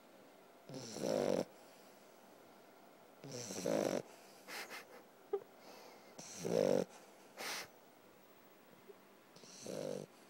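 Puppy snoring in its sleep: four snores about every three seconds, with a couple of shorter, fainter sounds in between.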